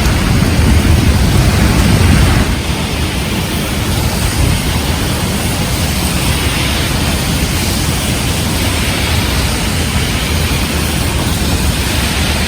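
Heavy rain falling, with strong wind buffeting the microphone. There is a heavier low rumble for the first couple of seconds that eases off, then the downpour continues steadily.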